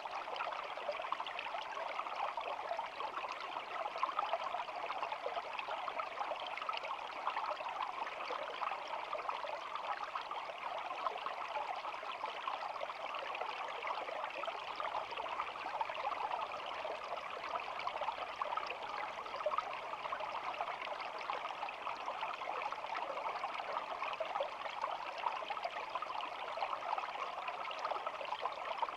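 Shallow stream babbling steadily, an even rush of flowing water with constant small splashes and trickles.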